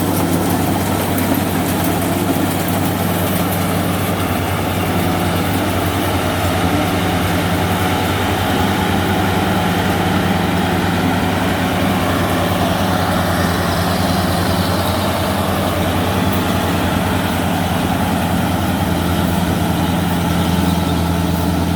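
Rice combine harvester's diesel engine running steadily, with a constant low hum and no change in pace.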